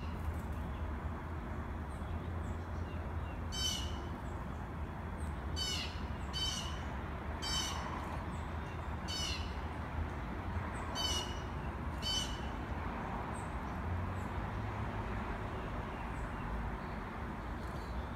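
A bird giving short, harsh calls, about seven of them at uneven intervals through the first two-thirds, over a steady low hum.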